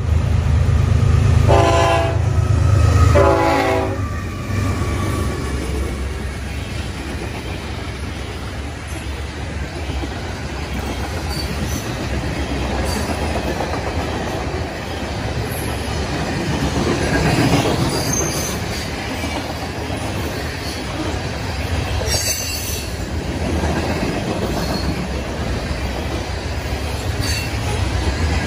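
BNSF diesel freight locomotive passing close, sounding two short horn blasts within the first four seconds over a heavy engine rumble. Then a long train of covered grain hopper cars rolls by with steady wheel rumble and clatter on the rails.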